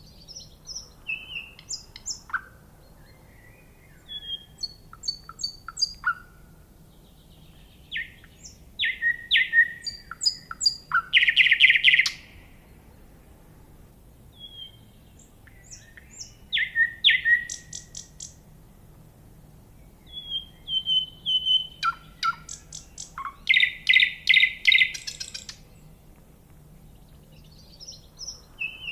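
A songbird singing in bouts of high chirps and quick note sweeps, each bout a few seconds long with pauses of one to two seconds between. Twice the song ends in a loud, fast trill of rapidly repeated notes.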